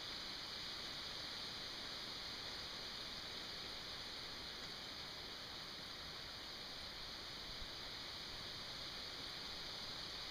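A steady, even hiss with no changes, and one faint tick about seven and a half seconds in.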